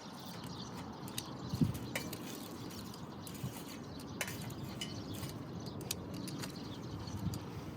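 Small wood fire crackling in a compact tabletop grill, with scattered sharp pops and a soft thump about a second and a half in. Birds chirp faintly in the background.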